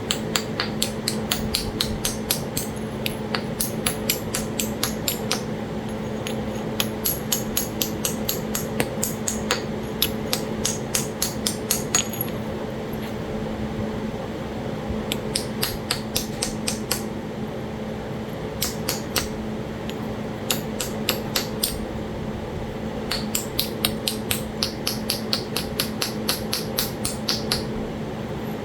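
Stone striking stone as Talahata quartzite is worked against an anvil stone with a hammer stone: runs of sharp, light clicking taps, about four or five a second, broken by short pauses.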